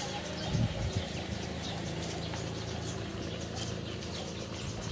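Birds chirping over and over above a steady low engine rumble from a car moving off.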